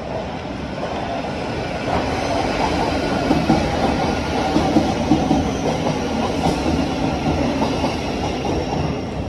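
Thameslink electric train running into the platform alongside, its wheels on the rails and its motors growing louder about two seconds in and staying loud.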